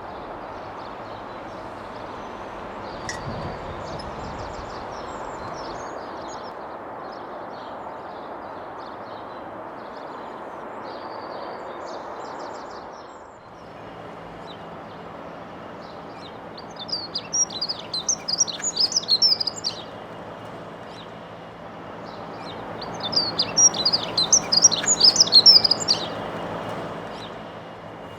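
Male dunnock singing its territorial song: two short, fast, high warbling phrases a few seconds apart in the second half, over a steady hum of urban background noise, with fainter bird chirps earlier.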